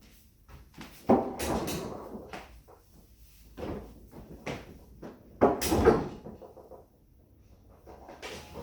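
A string of clunks, knocks and rattles as an appliance and a power cord stuck underneath it are handled and tugged at. The loudest knocks come a little past the middle, and it goes quiet briefly near the end.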